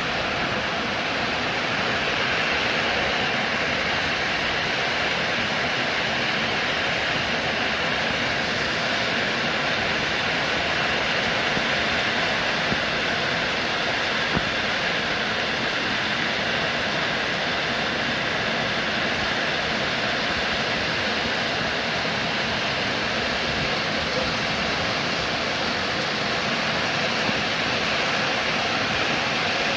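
Steady rain falling, an even unbroken hiss with a couple of faint sharper taps in the middle.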